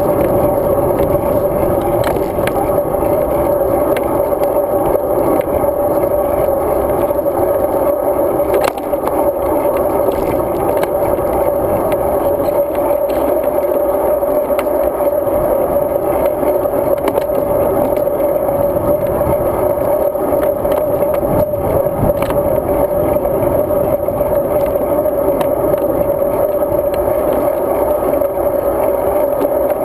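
Steady, loud rush of wind and road vibration picked up by a GoPro Hero 2 riding along on a road bike, with a constant hum and a few light rattling clicks.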